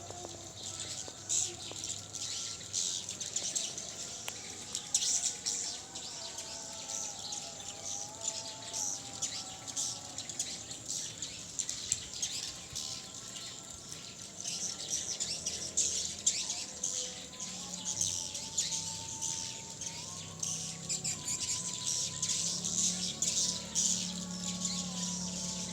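Many swiftlets chirping together: a dense, continuous high twittering of rapid short chirps.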